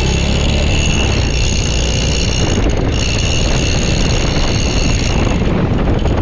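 Motorcycle engine running steadily while riding, with a steady high-pitched whine over it.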